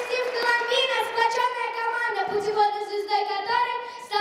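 Children's vocal ensemble singing, holding long high notes that step from pitch to pitch through a melody.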